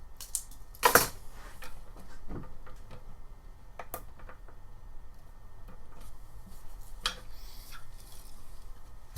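Metal hand tools clicking and clinking as sockets are picked up and tried for fit on a seized fitting. There is one sharp clack about a second in, then scattered lighter ticks and knocks.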